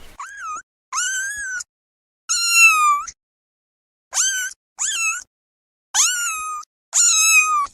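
Cat meowing: seven high-pitched meows of varying length, each rising then falling in pitch, separated by silent gaps.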